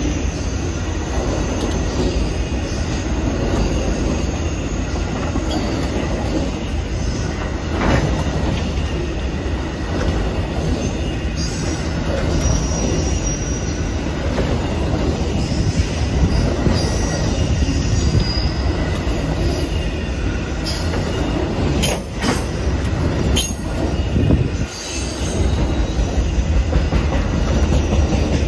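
Amtrak Auto Train autorack cars rolling past at speed: a steady rumble and clatter of steel wheels on the rails, with a few sharp clanks a little over twenty seconds in.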